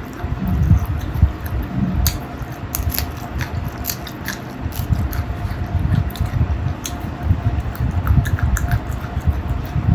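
Close-miked chewing and biting on masala chicken feet, with irregular small crunches and wet mouth sounds.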